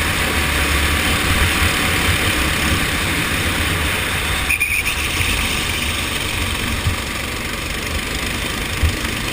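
Go-kart engine running steadily under racing, with a hiss of wind and road noise over it and a brief dip about halfway through.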